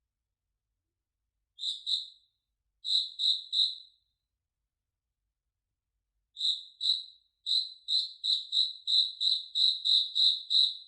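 One cricket chirping in short, high, clear pulses. It gives a pair, then a group of three, then settles into a steady run of about three chirps a second from about six seconds in.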